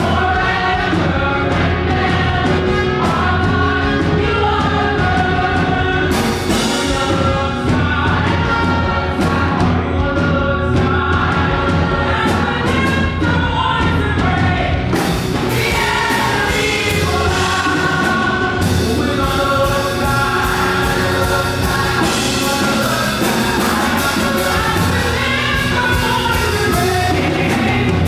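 Live fast gospel worship song sung by a group of voices over a band with steady bass and drums. The drums and cymbals get busier about halfway through.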